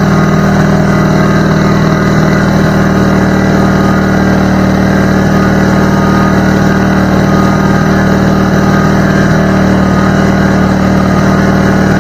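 McGraw 21-gallon air compressor running steadily with a loud, even motor-and-pump drone.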